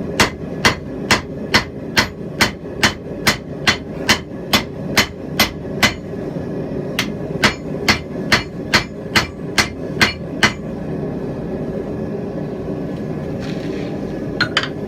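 Hand hammer blows on hot steel at the anvil in a steady rhythm, a little over two a second, with a brief pause about six seconds in; the blows stop about ten and a half seconds in, leaving a steady low rumble that runs underneath throughout, and a couple of light taps near the end.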